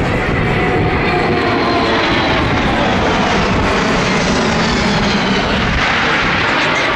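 Boeing C-17 Globemaster III's four Pratt & Whitney F117 turbofan engines flying past: a loud, steady jet rush with whining tones that slowly fall in pitch.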